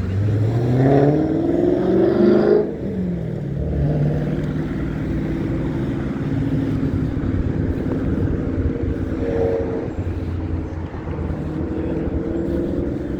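A road vehicle's engine accelerating, its note rising for about two and a half seconds, then breaking off and carrying on at a steadier, lower note over the rumble of street traffic.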